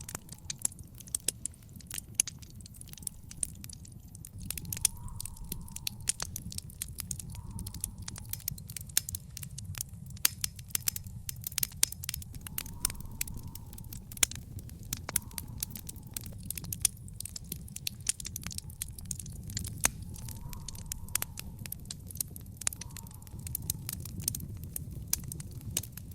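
Wood fire in an outdoor fire pit crackling, with irregular sharp pops of varying loudness over a steady low rumble.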